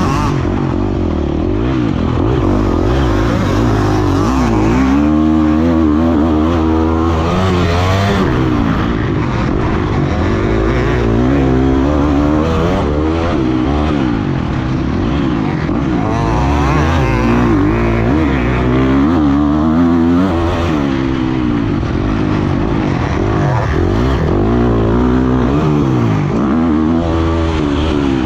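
Motocross dirt bike engine heard close up, revving up and down over and over as the bike accelerates and backs off around the track, its pitch climbing and dropping every second or two.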